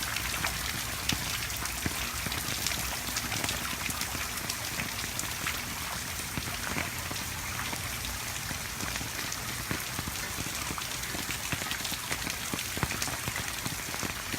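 Hurricane rain falling steadily, with many small drop hits.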